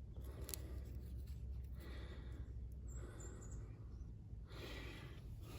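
Bow drill in use: the wooden spindle scratching as it turns in the fireboard, the noise swelling and fading with each stroke of the bow.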